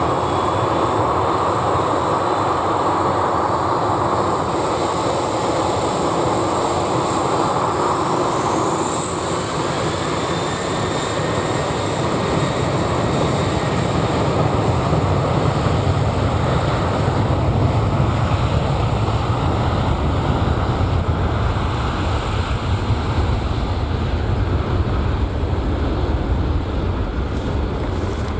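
Jet engines of a Boeing 737-800 (CFM56-7B turbofans) at takeoff power: a loud, continuous roar. About a third of the way in the higher part of the roar fades and a deeper rumble takes over, as heard when the jet passes and climbs away.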